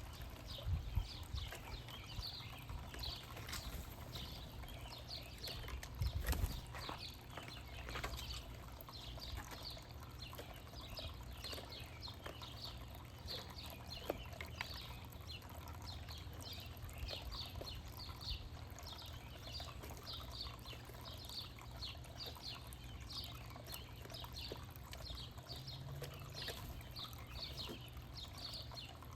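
Small birds chirping continually, a steady stream of short, high, quickly repeated chirps, over a low background rumble, with a couple of louder low bumps about a second in and again about six seconds in.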